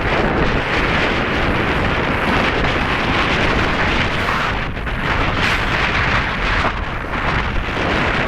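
Wind buffeting the microphone of a camera carried on a moving bicycle: a loud, steady rush that briefly eases about halfway through.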